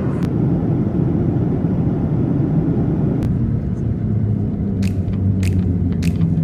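Steady low rumble and hum of a jet airliner's cabin. Near the end, a run of sharp ticks starts, about one every 0.6 s.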